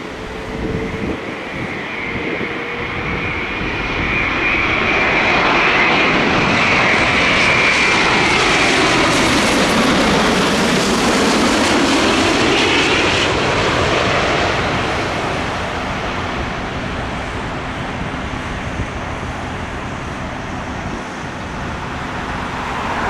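Boeing 787-9 airliner with Rolls-Royce Trent 1000 turbofan engines passing on its landing approach. The jet noise builds with a high whine, peaks for several seconds with a sweeping rise and fall in pitch, then eases off.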